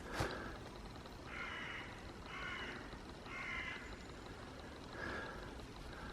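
Crow cawing: three harsh caws about a second apart, then a fainter call near the end.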